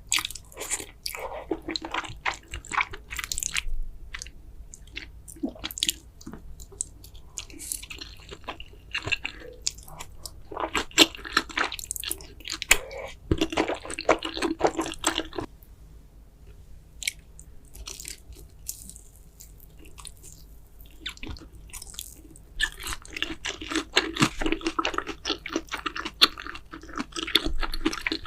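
Close-miked, wet chewing and mouth smacking of a person eating carbo fire noodles in big mouthfuls. It comes in busy bursts of clicks and smacks, thinning out briefly about two-thirds of the way through.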